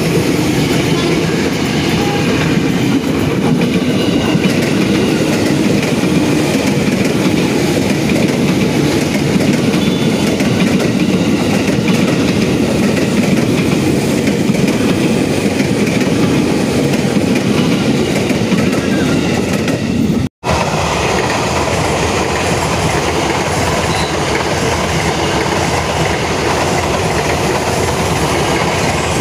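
KRL commuter electric multiple-unit trains passing close by: a steady, loud run of steel wheels on the rails. The sound breaks off for an instant about two-thirds of the way through, then another passing train carries on.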